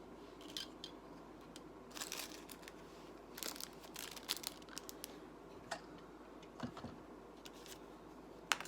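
Small plastic Lego pieces being picked out and handled, with scattered light clicks and rustling.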